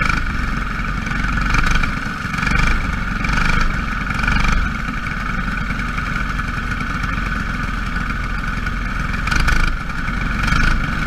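Small racing engines running around a track, a steady high drone that swells repeatedly as the cars pass.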